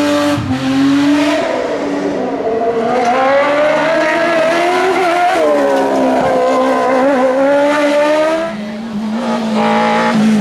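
Race car engine at hard throttle on a hillclimb, revving up and dropping back several times with gear changes and corners. Near the end the sound dips and gives way to a lower, steadier engine note.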